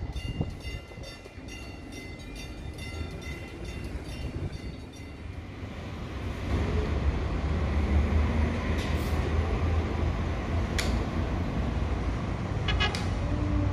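CPTM electric commuter trains on the line: first a train's wheels clicking rhythmically over the rails with a pulsed high whine that fades. Then, about six seconds in, the low rumble of an approaching train builds and stays loud, with a few sharp clicks near the end.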